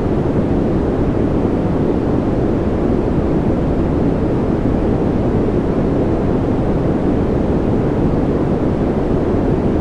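Steady white noise played as a sleep sound, weighted toward the low end, so it sounds like a deep, even rush with no changes.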